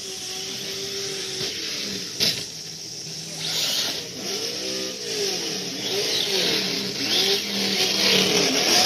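Electric motors of radio-controlled short course trucks whining, the pitch rising and falling in repeated arcs as they speed up and slow down through the course, over a steady hiss. A sharp click about two seconds in.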